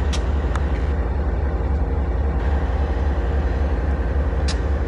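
Freight train of hopper wagons on the rails: a steady, loud rumble with three short, sharp clicks, near the start and near the end.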